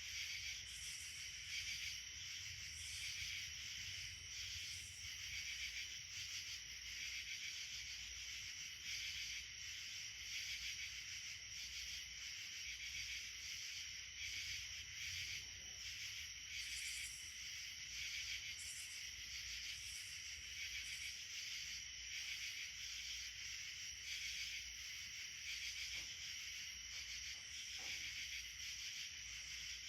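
Insects chorusing: a steady high trilling, with a higher pulsing call coming and going every second or two.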